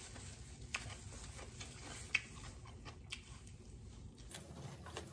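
Faint crunches and clicks of a person chewing raw red onion, a few sharp crunches standing out over a low background hum.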